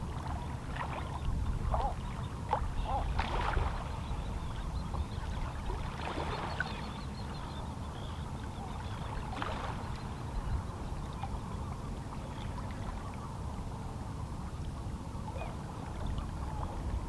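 Calm sea lapping and splashing against shoreline rocks over a steady low wash, with a cluster of small splashes in the first ten seconds.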